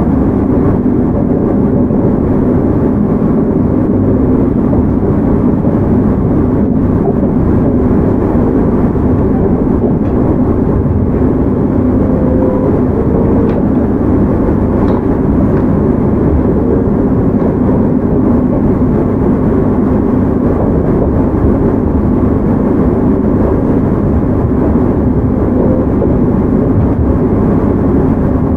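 Running noise of a JR Hokkaido 731 series electric train heard from inside motor car Moha 731-114: a steady rumble of wheels on rail and running gear, even in level throughout.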